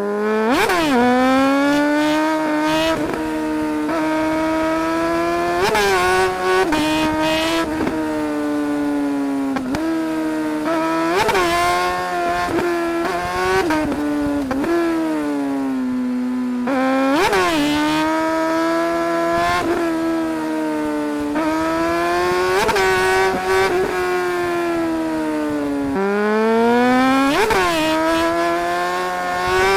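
2008 Suzuki GSR 600's inline-four engine under hard riding: the engine note rises and falls repeatedly, with about six sharp rev spikes roughly every five to six seconds.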